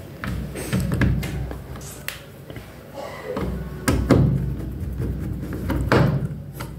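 Washing machine parts being handled and fitted back by hand: irregular clatter and several sharp knocks a second or two apart.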